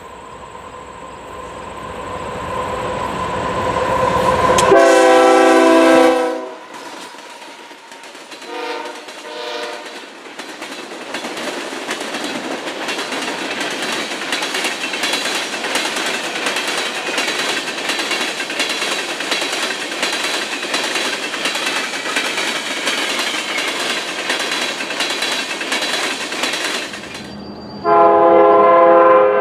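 A train approaches and its locomotive sounds a multi-tone air horn: one long blast, then two short, fainter ones. The train then rolls past with steady wheel and rail noise for about fifteen seconds. Near the end, another loud horn blast sounds.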